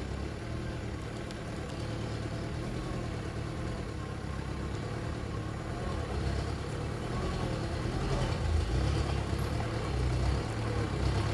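Truck engine running steadily, a low rumble that grows a little louder in the second half.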